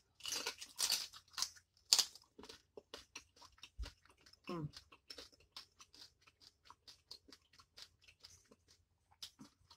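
Close-miked biting and chewing of spicy boiled seafood: a few crisp crunching bites in the first two seconds, then steady wet chewing with small clicks. There is a brief voiced hum about four and a half seconds in.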